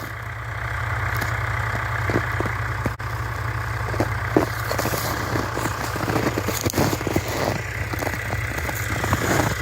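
Footsteps crunching and scraping in hard, very cold snow, several irregular steps a second after the first couple of seconds, over a steady low engine rumble.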